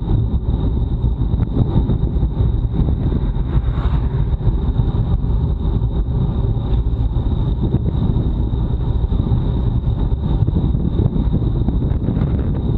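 Wind buffeting an action camera's microphone on a bicycle ridden fast in a time trial: a dense, steady low rumble, with a faint thin high whine over it.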